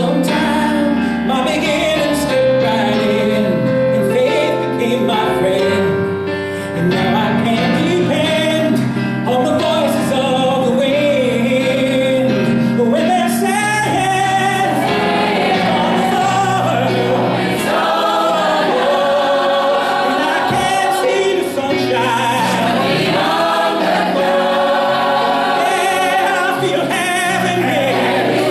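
A mixed choir singing a gospel song with instrumental accompaniment.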